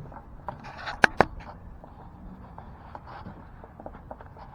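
Two sharp knocks about a second in, a fifth of a second apart, just after a short scrape, followed by faint scattered handling ticks. These are the sounds of work on the car's rear window glass during fitting.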